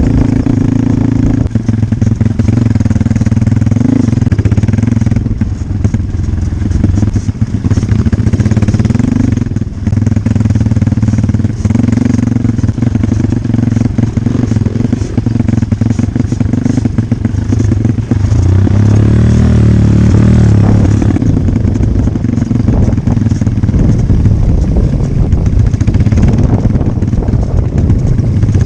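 Dirt bike engine running steadily, with brief rises in pitch every few seconds and a rougher, busier stretch about two-thirds of the way through.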